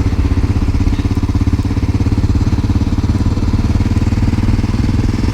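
1988 Honda NX650 Dominator's single-cylinder engine running at a steady, even pace.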